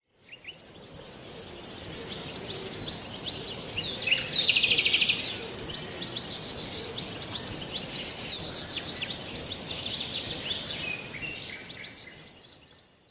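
Forest ambience with many small birds chirping over a steady background hiss. About four seconds in, one bird gives a fast trill of rapidly repeated notes. The sound fades in at the start and fades out at the end.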